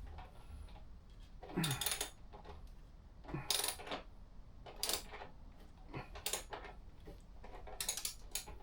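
Hand tools and metal parts clinking and scraping in short clatters, about six times, while fasteners are being worked on.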